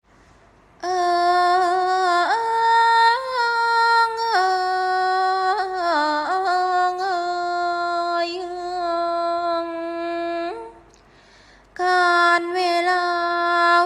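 Music: a female voice singing a slow melody of long held notes, starting about a second in and pausing briefly near the end before resuming.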